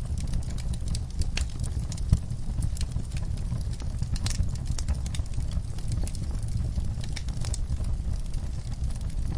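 Wood fire burning in a fireplace, crackling with irregular small pops over a low steady rumble of flames; one louder pop about two seconds in.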